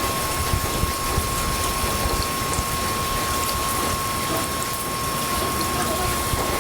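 Heavy rain falling, a steady hiss, with gusts rumbling on the microphone and a steady high tone through it.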